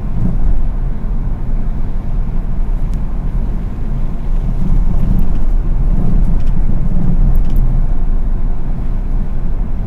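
Car driving along at low speed: a steady low rumble of engine and road noise.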